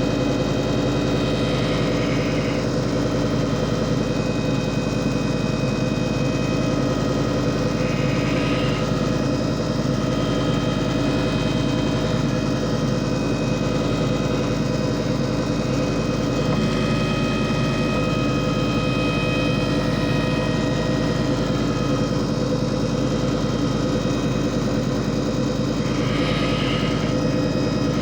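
JFJ Easy Pro disc repair machine running steadily, its motor humming at a constant pitch. A brief hiss comes three times, near the start, about a third of the way in, and near the end.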